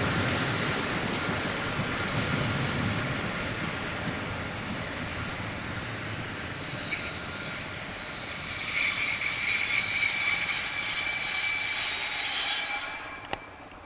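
Train running along the rails with a steady rumble. About halfway through, high-pitched metallic squealing sets in and grows louder, then falls away and the sound cuts off with a click near the end.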